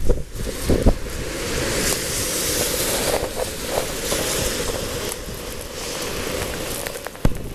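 Storm wind blowing hard and buffeting the microphone, with short thumps about a second in and near the end.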